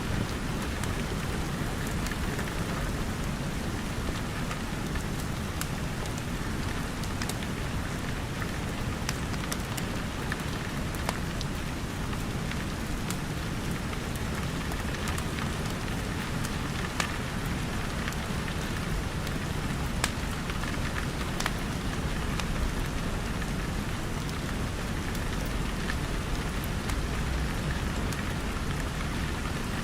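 Steady rain pattering, mixed with a crackling wood fire in a fireplace: scattered sharp crackles and pops over an even rain hiss.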